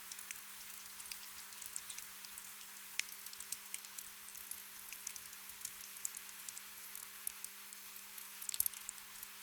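Gentle rain: a soft steady hiss with many small scattered drip taps, a cluster of them near the end. A faint low steady hum sits underneath.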